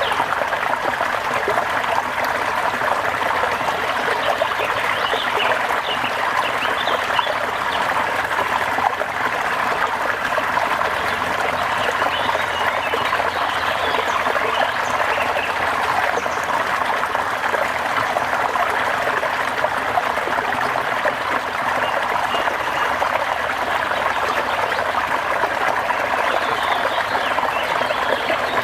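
Steady rain with water trickling, an even hiss that does not change.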